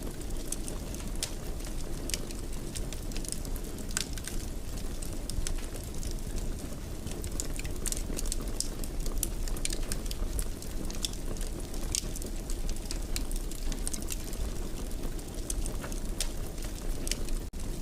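Fireplace fire crackling: irregular sharp pops and snaps over a steady low rumble of flame, with a momentary break near the end.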